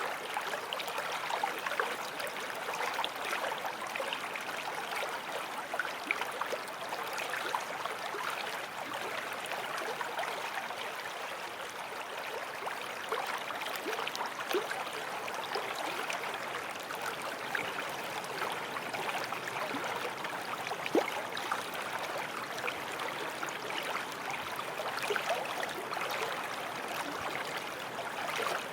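Small forest stream flowing over stones, a steady babble and gurgle with small splashes throughout.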